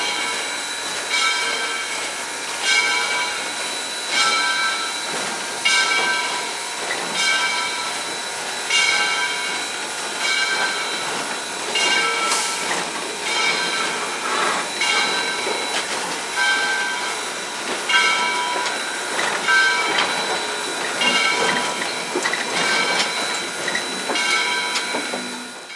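Southern Railway 630, an Alco 2-8-0 steam locomotive, heard from inside its cab while under way at low speed: a steady steam hiss with a ringing chord of tones that swells in a regular beat about once every second and a half. The sound cuts off suddenly at the end.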